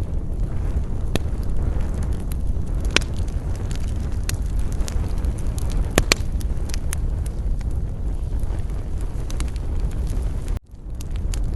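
Campfire crackling, with scattered sharp pops over a steady low rumble of wind on the microphone. The sound cuts out for a moment near the end.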